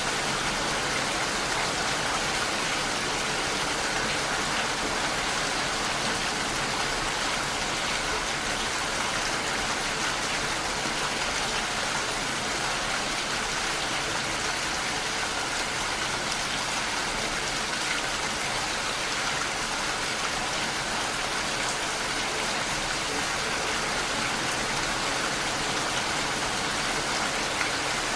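Steady rain falling: a constant, even hiss of many raindrops with no change in strength.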